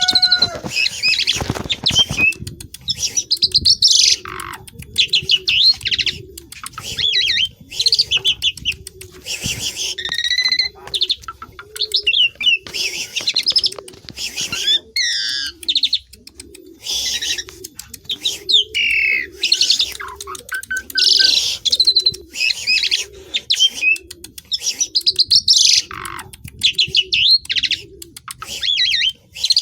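Javan pied starling (jalak suren) singing loudly and continuously: a busy, varied song of fast chattering notes mixed with clear whistles and sliding whistles, delivered in bursts with short pauses between them.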